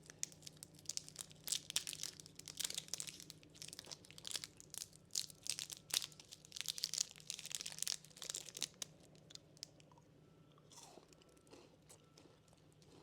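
Crunchy snacks being bitten and chewed close to the microphone in a dense run of crackling crunches. About nine seconds in, it thins to softer, occasional chewing.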